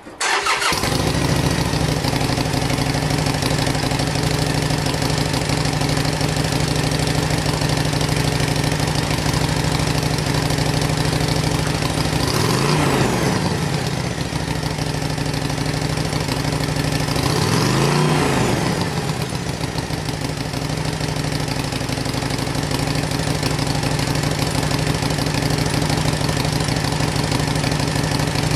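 2014 Harley-Davidson Sportster 883's air-cooled V-twin starting and idling through its stock muffler, blipped twice: a short rev about halfway through and another a few seconds later, each rising and falling back to idle.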